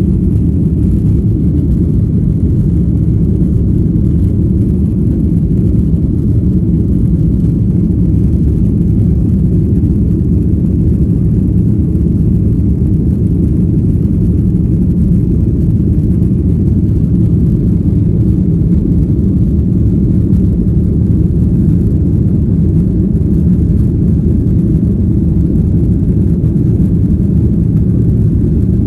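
Jet airliner cabin noise: a steady low rumble of engines and airflow heard from inside the passenger cabin, unchanging throughout.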